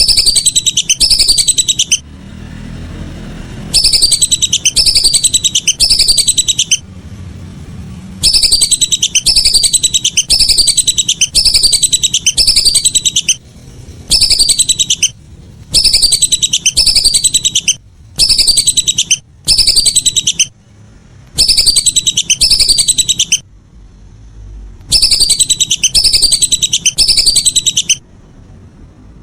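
Whistling duck (belibis) calling over and over: high, quick whistled notes that fall in pitch, each about half a second long, in runs of several calls broken by short pauses. The runs start and stop abruptly, as in a looped recording.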